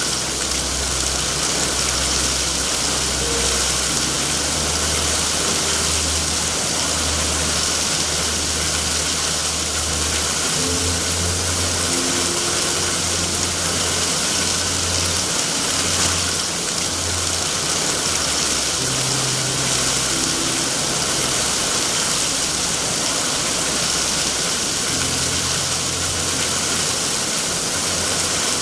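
Steady heavy rain, an even hiss, over a low rumble that swells and fades irregularly.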